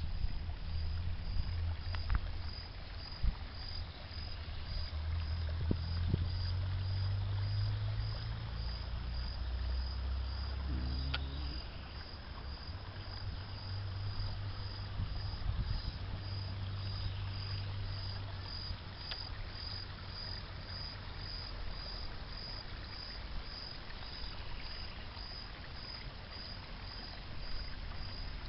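An insect chirping steadily in a high, even pulse a little under twice a second, over low wind rumble on the microphone.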